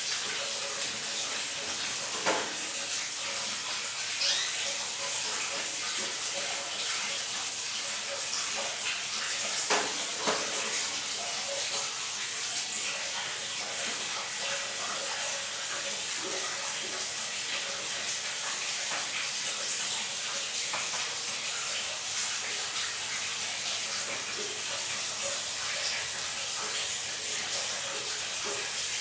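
Water running steadily in a tiled bathroom, a continuous splashing hiss, with a few sharp knocks about two, four and ten seconds in.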